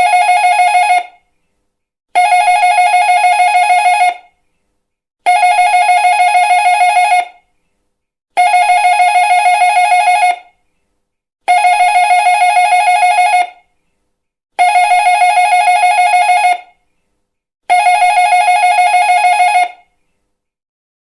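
Electric doorbell ringing over and over, each ring a fast-trilling bell of about two seconds followed by about a second of silence, repeated about seven times.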